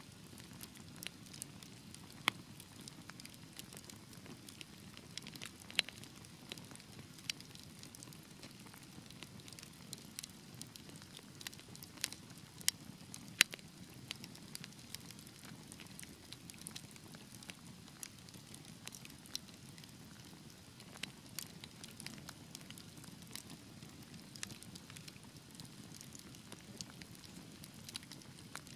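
Wood fire burning in a fireplace: a low steady rumble of the flames with frequent irregular crackles and sharper pops, a few of them louder.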